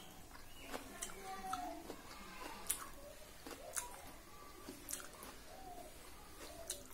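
Scattered sharp clicks and smacks of eating, a handful over the few seconds, the loudest near the middle, with short faint bird calls in the background.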